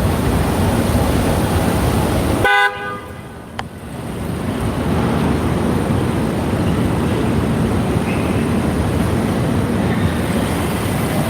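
Wind buffeting the microphone over street traffic, broken by a short car-horn toot about two and a half seconds in. Right after the toot the rumble drops away for about a second, with one small click, then builds back.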